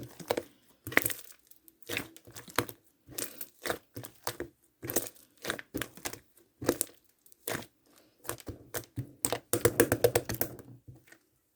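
Pink cloud slime being squeezed and pulled by hand, giving irregular short crackles and pops with gaps between them, and a quicker run of crackles about ten seconds in.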